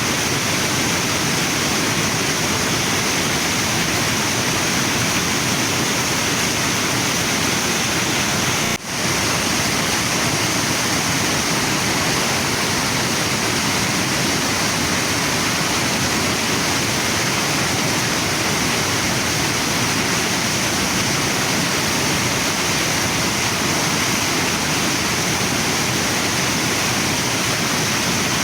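Waterfall and river water rushing steadily, with a brief dip in level about nine seconds in.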